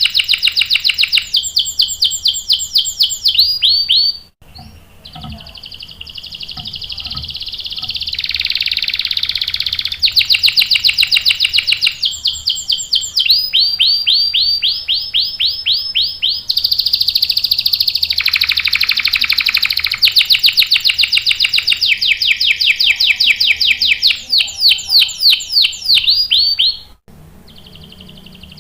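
Domestic canary singing long rolling trills, fast runs of the same high note repeated many times a second, changing from one run to the next. The song breaks off briefly about four seconds in and again near the end.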